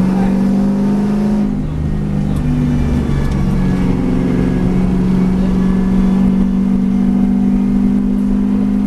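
V8 race car engine running under way, its pitch shifting about a second and a half in and again around three seconds in, then holding nearly steady.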